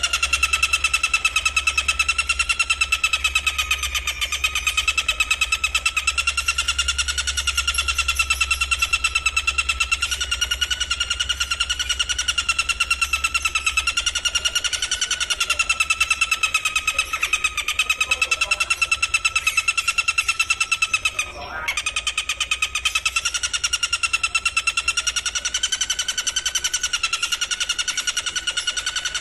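An insect's continuous, very fast-pulsed trill, held at a steady pitch that wavers slightly, with one brief break about two-thirds of the way through.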